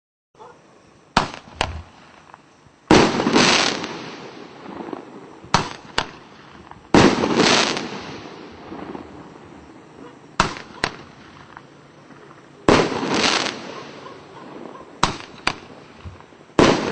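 A 1.5-inch 8-shot Roman candle firing shot after shot. Each shot gives a sharp double crack, then about a second later a louder bang that trails off slowly. This repeats four times, about every four seconds.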